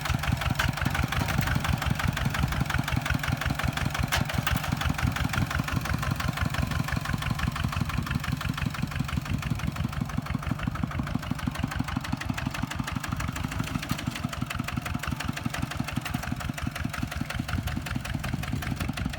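Kubota tractor's diesel engine running steadily with a fast, even chugging beat.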